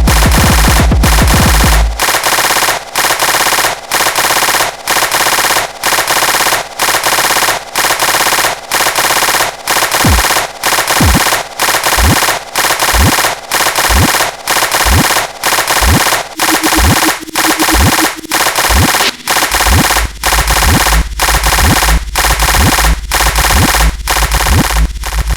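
Harsh electronic noise music: a dense wall of noise chopped into pulses about twice a second. A deep low drone runs under it at the start and returns near the end, and in the middle a string of quick falling bass sweeps rides each pulse.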